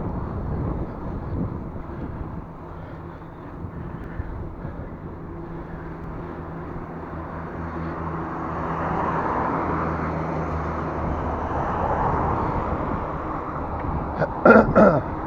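Road traffic heard from a bicycle: a steady motor-vehicle engine hum, then a rush of tyre noise that swells and fades as a vehicle passes.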